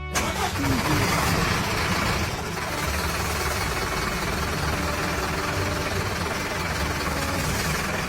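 Tractor engine running steadily at a low idle-like pitch, as a cartoon sound effect.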